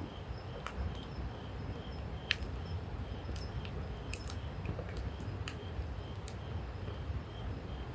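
Campfire crackling: burning wood gives scattered sharp pops and snaps, the loudest about two seconds in, over a low steady rumble. A faint insect chirps about twice a second.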